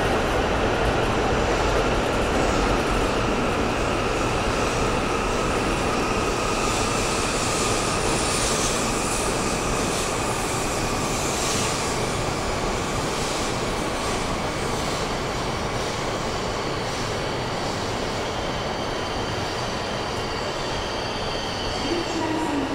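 E5 series Shinkansen train running slowly past along the platform as it brakes to a stop. A steady rolling rumble carries a faint whine that falls slowly in pitch, and the sound eases off gradually as the train slows.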